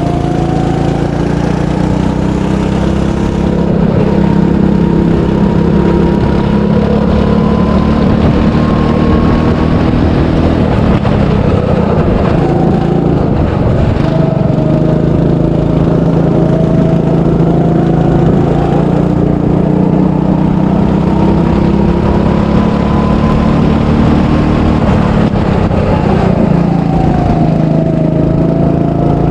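A 300cc go-kart engine running under load on a track lap. Its note glides up and down with speed, and falls away and turns rougher for a few seconds around eleven to fourteen seconds in before pulling steadily again.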